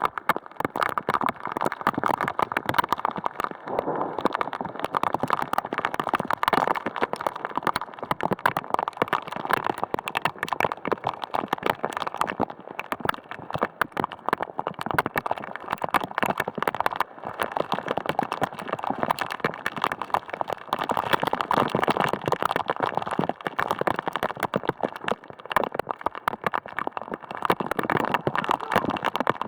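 Heavy rain pelting a hard surface: a dense, rapid patter that swells and eases in waves.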